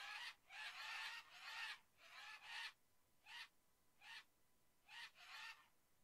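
Birds calling: a series of short calls, about seven in all, some coming in quick pairs, with quiet gaps between them.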